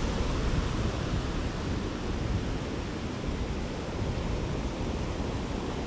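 Atlantic surf washing onto a sandy beach, a steady rush of noise, with wind rumbling on the microphone.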